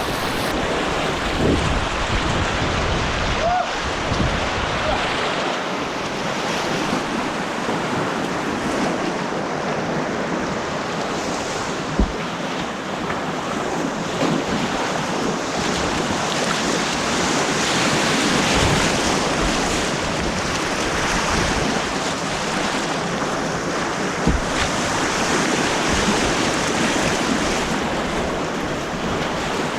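Rushing white water of an artificial white-water course, a steady roar, with wind noise on the microphone and two short knocks about twelve seconds apart.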